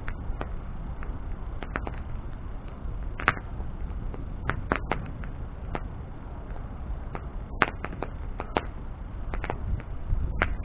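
Wood bonfire burning: a steady low rumble of flame with sharp, irregular crackles and pops from the burning wood, a dozen or more over the stretch.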